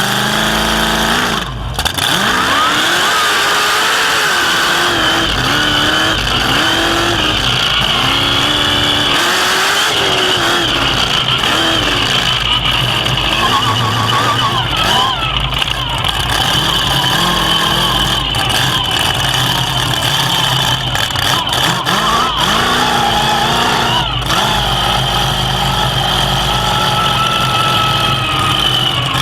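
Pro Mega Truck's racing engine running hard and revving up and down over and over as the truck is driven, over a constant rush of wind and road noise, with a few sharp knocks and jolts.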